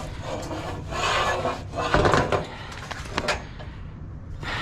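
Scrap metal and junk being rummaged through in a dumpster: irregular clattering and scraping, with a sharp knock about two seconds in and another just after three seconds.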